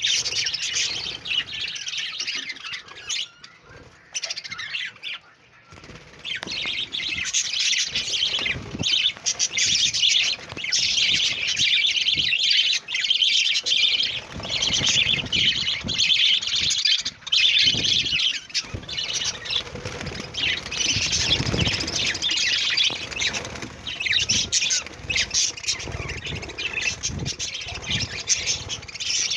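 A group of budgerigars chirping and warbling in a dense, continuous chatter. It thins out briefly a few seconds in, then builds back to steady chatter, with occasional low rustling thumps.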